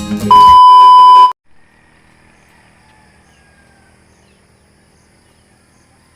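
Strummed acoustic guitar music cuts off about half a second in, overlapped by a loud, steady electronic beep tone about a second long. Then comes faint outdoor background with a few faint bird calls.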